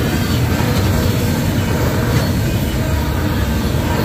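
Autorack freight cars of a train rolling past close by: a steady rumble of steel wheels on the rails.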